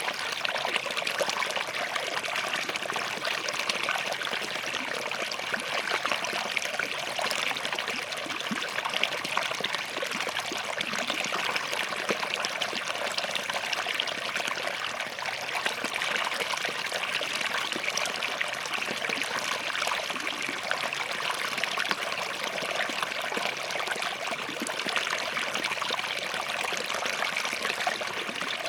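Small forest stream running between rocks, a steady trickling and splashing flow.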